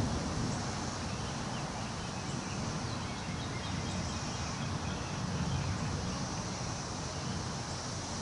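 Wind blowing through forest trees, a steady rushing hiss with a low rumble that swells and eases, and a few faint high bird chirps.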